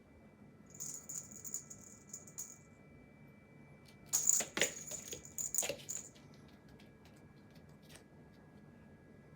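A small bell jingling in two bouts, the second with a few sharp clattering knocks.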